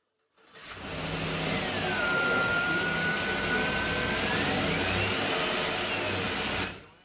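2007 Chevrolet Avalanche V8 engine running at idle under the open hood: a steady rushing drone over a low hum. A thin whistle runs through it, dropping in pitch, holding, then rising and falling again near the end. The sound fades in about half a second in and fades out just before the end.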